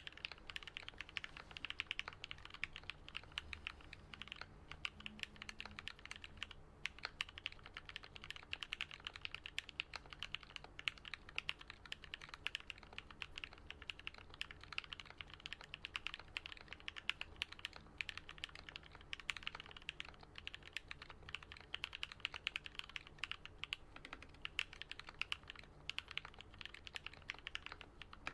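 Fast continuous typing on a custom Alice-layout mechanical keyboard with lubed, filmed linear Gat Yellow switches and lubed Durock stabilizers: a dense run of deep keystroke clicks, the spacebar among them, pausing briefly a couple of times.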